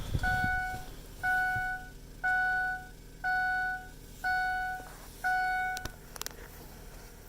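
Pickup truck's dashboard warning chime, a clear electronic ding repeating about once a second, six times, then stopping, as the key is turned on.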